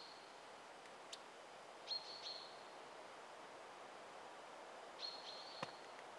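Quiet woodland background with a bird's short, high calls, two or three together, about two seconds in and again about five seconds in. Two sharp clicks fall in between.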